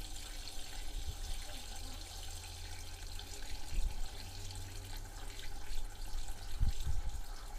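Steady rushing noise with a low rumble and a few low thumps near the end: wind and engine noise from a moped ride, picked up by a chest-mounted camera.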